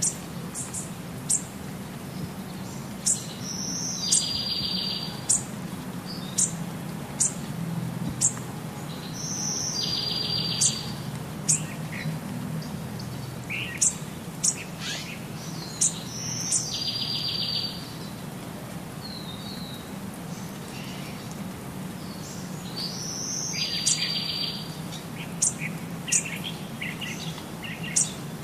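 A small bird chirping and singing: sharp high chirps, and every six or seven seconds a fast buzzy trill lasting about a second. A steady low hum runs underneath.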